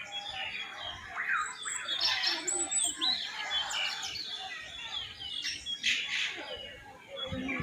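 Many caged birds in an aviary calling at once: a busy mix of chirps, whistles and squawks that overlap throughout.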